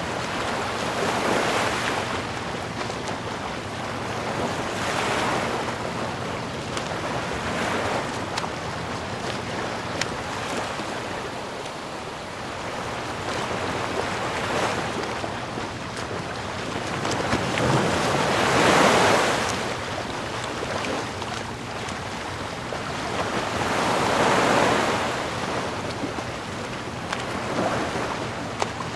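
Ocean waves washing ashore, swelling and breaking every few seconds over a steady hiss of surf, the biggest wave about two-thirds of the way through.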